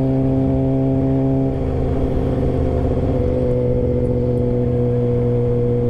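Motorcycle engine running while riding. Its note wavers for about a second and a half in the middle, then holds steady again.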